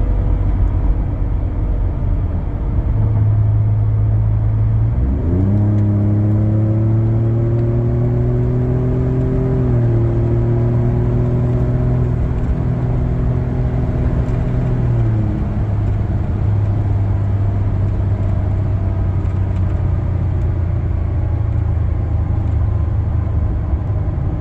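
Ford F-150 3.5 EcoBoost V6 idling through an AWE 0FG exhaust with a 3-inch Borla resonator. About five seconds in the revs climb quickly and are held at a steady raised engine speed for about ten seconds, then drop back to idle.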